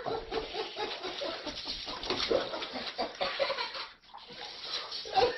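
An animal calling in a run of short, pitched cries, with a brief drop-out about four seconds in.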